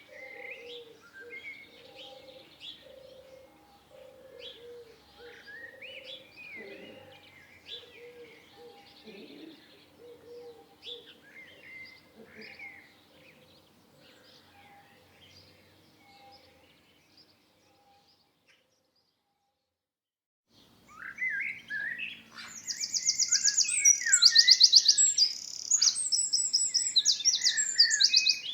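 Songbirds chirping softly over a low call repeated about twice a second. The audio drops out briefly about two-thirds of the way in, then a much louder bird song with fast, high trills begins.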